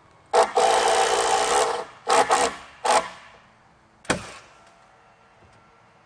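Handheld power tool, such as a drill or driver, running in one long burst and then three short bursts, followed by a single sharp knock about four seconds in.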